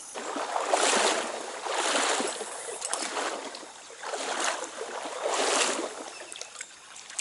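Water sloshing and rushing in swells about once a second.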